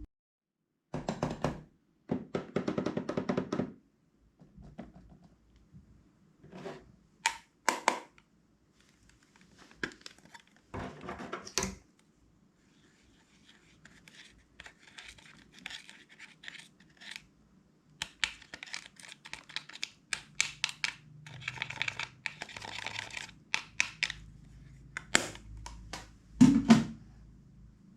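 Close-up handling of slime and small plastic containers: irregular sharp clicks and taps, with stretches of scratching and rustling, and one louder thump near the end.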